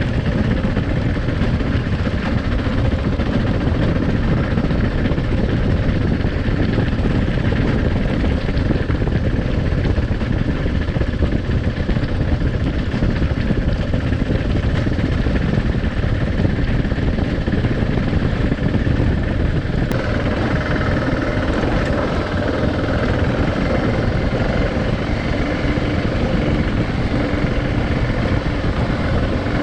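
Adventure motorcycle under way: the engine runs steadily beneath heavy wind buffeting and road noise. The engine note shifts about two-thirds of the way through.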